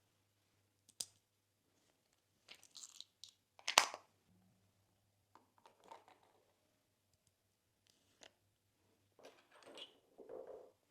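Slime being pressed and mixed by hand, making scattered soft crunches and squishes a second or two apart, with the loudest crunch about four seconds in.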